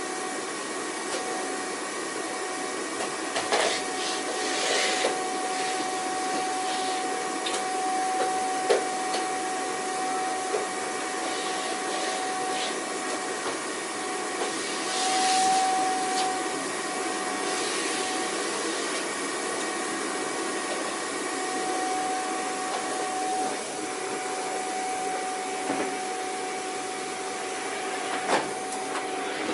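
Vacuum cleaner running with a steady whine and rushing air. A few short clicks and brief louder surges of suction come and go.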